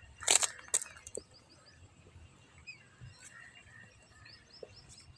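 Small birds chirping in quick runs of short high calls, outdoors in the open. Two loud sharp clicks or rustles come about half a second in.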